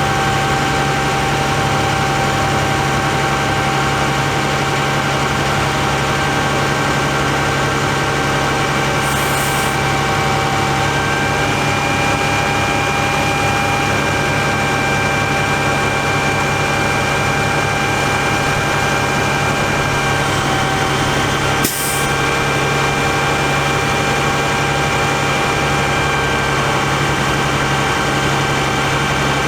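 International DT466 diesel engine running steadily at a constant speed, with a steady whine over it. A short hiss comes about nine seconds in, and a single click with a brief dip in level about twenty-two seconds in.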